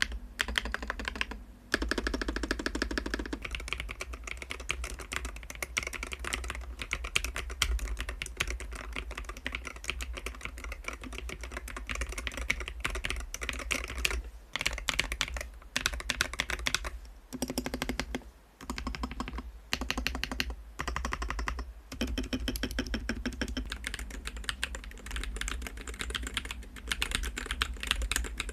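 Fast typing on a Hall-effect magnetic-switch mechanical keyboard: a dense run of key clacks with a few short pauses.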